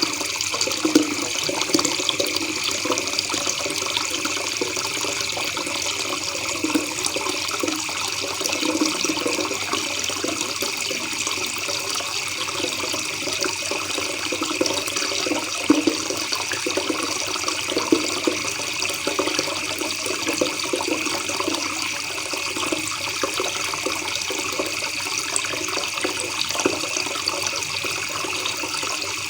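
River water babbling and gurgling steadily over stones, with a few sharper splashes now and then.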